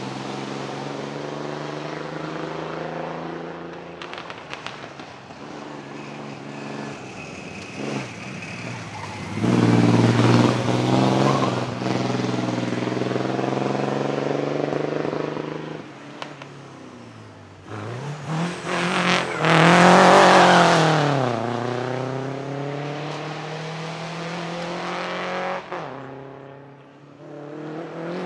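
Vintage racing car engines revving hard under acceleration, with pitch climbing and dropping between gear changes. The loudest moment comes about two-thirds of the way through, as a car passes close and its engine note rises, then falls away.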